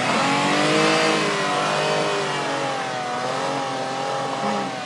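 Four-wheeler (ATV) engine running hard under load, its revs rising and dipping slightly.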